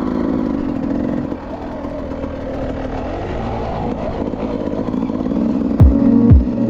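Dirt bike engine running, its pitch wavering up and down with the throttle. Near the end, music with a heavy kick drum comes in.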